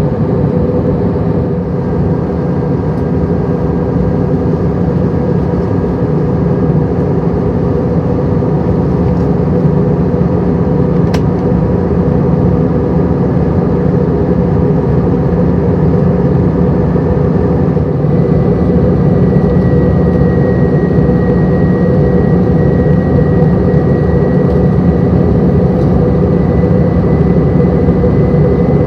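Steady cabin drone of an Airbus A320-200 in flight, a mix of engine and airflow noise. A faint high whine joins it about two-thirds of the way through.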